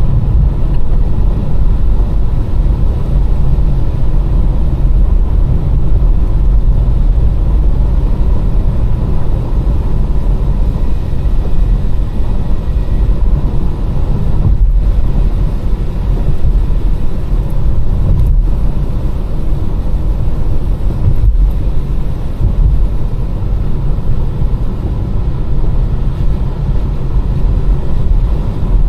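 A car driving steadily, a constant low rumble of engine and tyre noise.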